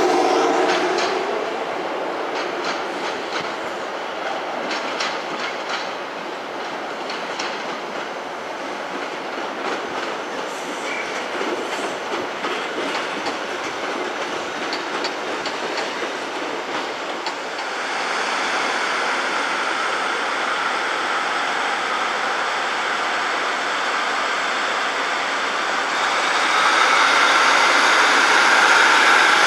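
Train moving through the station, its wheels clicking over rail joints and pointwork for about the first half. It then gives way to a steadier engine or traction hum with a faint high whine, which grows louder near the end.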